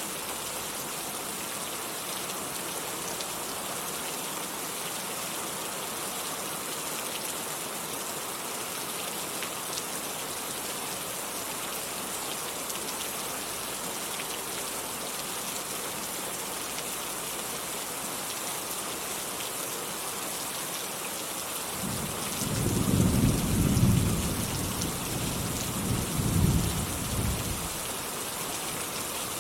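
Steady rain falling with an even hiss, and a roll of thunder rumbling in about three-quarters of the way through, swelling twice before fading back under the rain.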